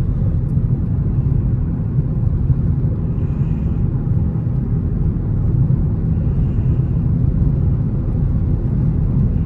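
Dodge Charger Scat Pack's 6.4-litre HEMI V8 running with a steady low rumble, mixed with road noise while the car drives.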